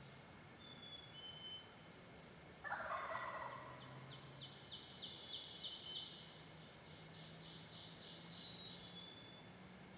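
A wild turkey gobbler gobbles once about three seconds in, a rattling call lasting about a second. Then a small songbird sings a long run of rapid, high repeated notes, with a few short whistles around it.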